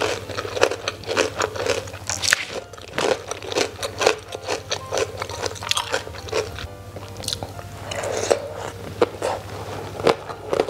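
A mouth chewing rice with crisp emping melinjo crackers, close to the microphone: a quick, steady series of sharp crunches.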